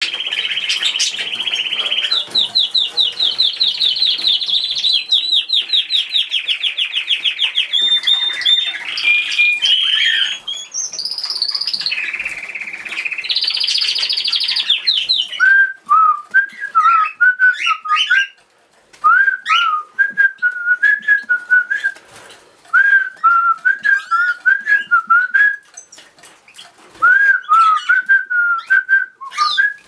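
Pet birds singing. For about the first fifteen seconds there are fast, high trills and rolls. After that, a lower warbling whistle comes in short repeated phrases with brief pauses between them.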